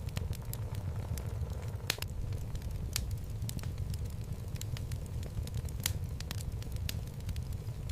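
Wood fire burning in a fireplace: a steady low rumble of flames with irregular sharp crackles and pops of burning logs, a few louder pops standing out.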